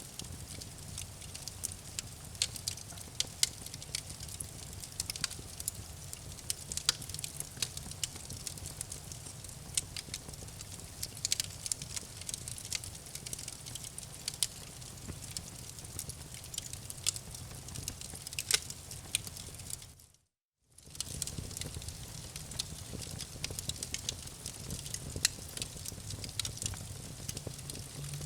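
Campfire crackling: irregular sharp pops and snaps from burning wood over a steady low rumble and hiss. The sound cuts out completely for about half a second a little after twenty seconds in, then resumes.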